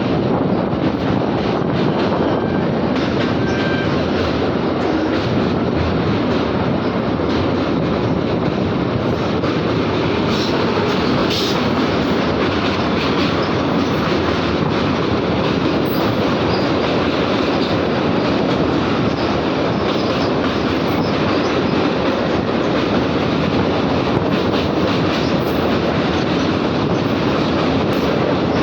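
A train running across a railway bridge: a loud, steady rumble of wheels on the rails, with a few faint clicks.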